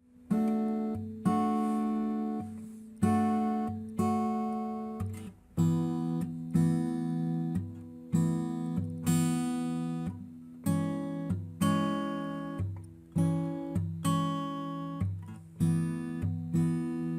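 Background music: acoustic guitar strumming chords, each one ringing out and fading before the next.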